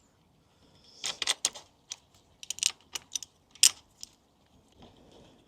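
Small metal parts clinking and rattling as they are handled: a quick run of sharp, bright clicks and jingles lasting about three seconds, the loudest near the end.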